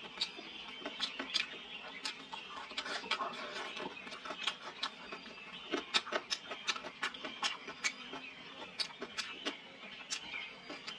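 Close-up eating sounds: chewing with irregular sharp smacks and clicks, several a second.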